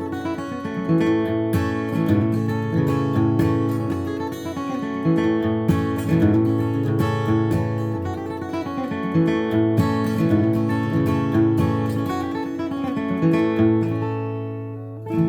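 Flatpicked acoustic guitar playing bluegrass G-run phrases at a faster tempo: quick single-note runs alternating with strummed chords. A last strong strum comes near the end.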